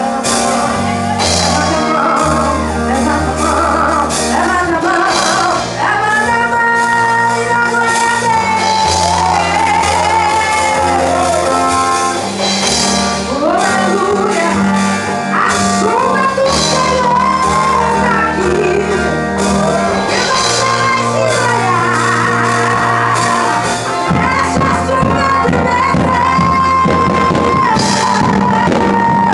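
Live gospel band with electric guitar and bass playing loudly, with a singer in a large hall.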